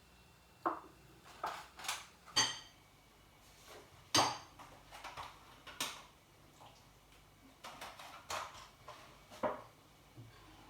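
A spoon clinking and knocking against a bowl: about a dozen separate, irregular taps, a few of them ringing briefly.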